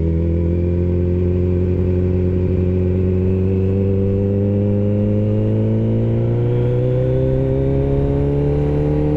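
Kawasaki ZX-14 inline-four motorcycle engine pulling steadily under light throttle, its note rising slowly and evenly.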